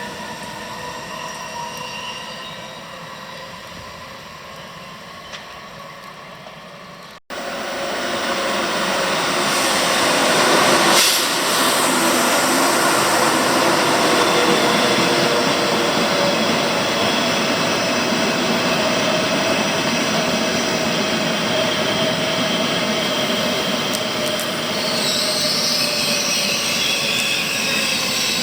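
Train running through the station: quieter rail noise, an abrupt cut, then a louder train whose rumble carries a slowly falling whine as it slows, with high-pitched wheel squeal near the end.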